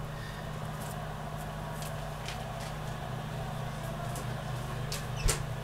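Frozen stir-fry vegetables in a hot oiled pan that they have cooled down, giving only sparse crackles and pops over a steady low hum. There is a sharp knock near the end.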